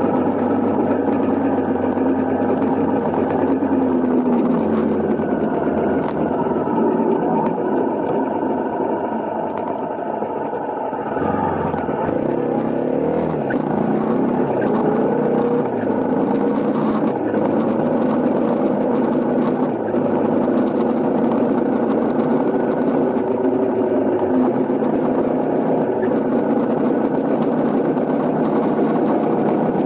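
Honda CRF250L motorcycle's single-cylinder four-stroke engine running while riding, its note dipping about eleven seconds in and then climbing again as the bike slows and picks up speed.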